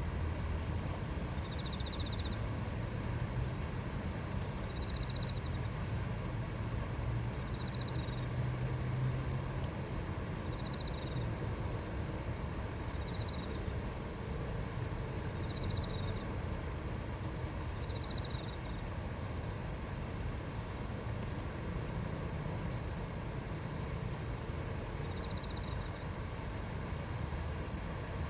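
River water murmuring steadily over stones. A short, high chirp repeats every two to three seconds over it, with a pause of several seconds in the later part.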